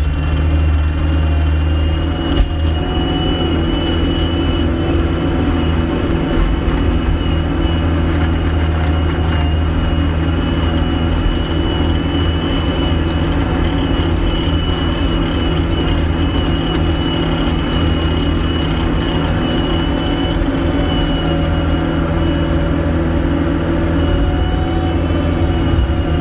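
Gehl skid steer's diesel engine running at a steady speed under work, with a constant high whine over the low engine hum.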